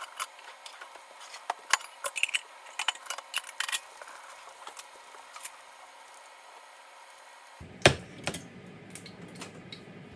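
Light clinks and taps of kitchen utensils against dishes, in a quick cluster over the first few seconds. About two-thirds of the way through, the background changes suddenly to a steady low hum, and there is one louder knock.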